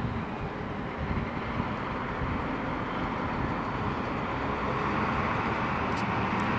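Airplane in flight, a steady rushing noise that slowly grows louder.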